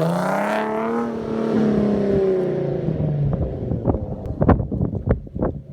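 Infiniti G37's 3.7-litre V6 through a muffler-delete exhaust with Motordyne ART pipes and a Y-pipe, revving up and then falling in pitch as the revs drop. As it winds down, a run of sharp pops and crackles comes from the exhaust.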